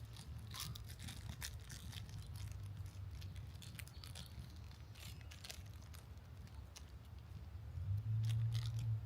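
Small clicks and rustles of hardware and small plastic parts packets being handled while looking for the set screws, over a low steady hum that gets louder near the end.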